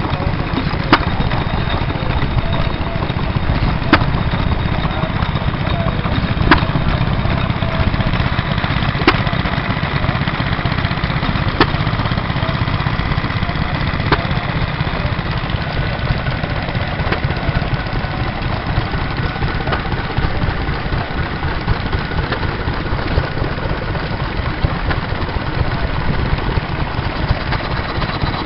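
Vintage stationary engines running steadily, with a sharp knock about every two and a half seconds through the first half.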